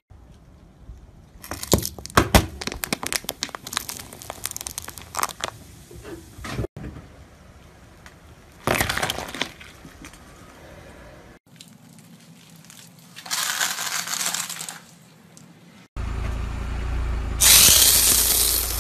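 A car tyre rolling onto things and crushing them, in several separate short takes. First an aluminium beer can crackles and crunches under the tyre for a few seconds. Then come two shorter squashing crunches, and near the end the loudest, a dense crushing hiss as the tyre flattens a block of foam.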